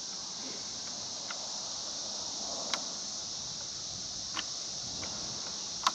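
Steady chorus of insects, such as crickets, with a few short sharp clicks or knocks spread through it, the strongest near the middle and at the end.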